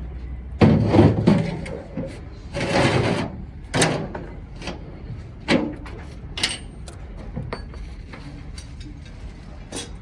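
Irregular metal clanks and scrapes from heavy engine parts and tools being handled on a workbench. The loudest bursts come about a second in and near three seconds, followed by sharper single knocks.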